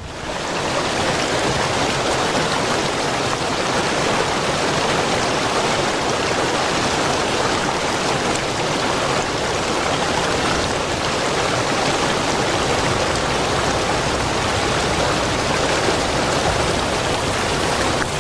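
Steady rushing noise of river water, loud and unbroken.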